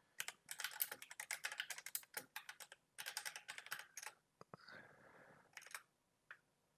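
Computer keyboard typing in quick runs of keystrokes for about four seconds, then a short soft noise and a few last key presses.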